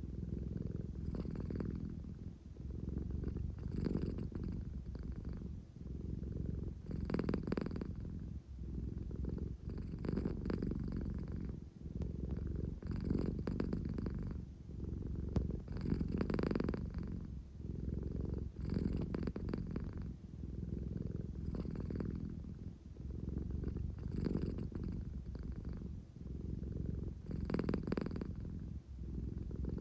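American Shorthair cat purring steadily, the rumble swelling and easing with each breath about every three seconds.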